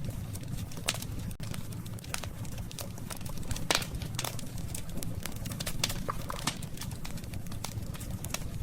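Wood campfire crackling: irregular sharp pops and snaps over a steady low rumble of the burning fire, with a louder cluster of pops a little past the middle.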